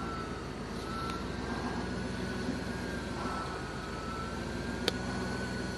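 A vehicle engine running steadily, with a high whine that wavers slightly in pitch over it. A single sharp click comes about five seconds in.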